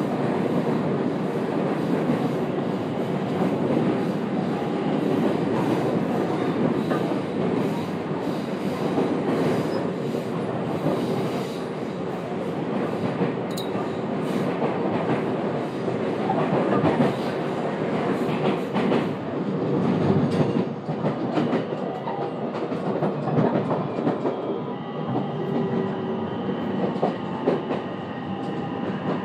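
JR West 227 series electric train running, heard from inside the passenger car: a steady rumble of wheels on rail with rhythmic clicks over the rail joints. A steady whining tone joins in near the end.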